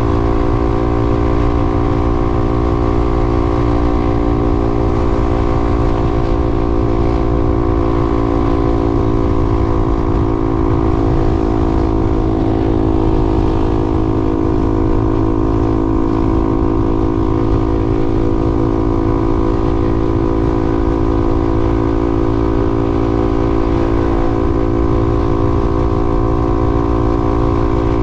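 Vehicle engine running steadily at highway cruising speed, with road and wind rumble; the pitch holds level throughout.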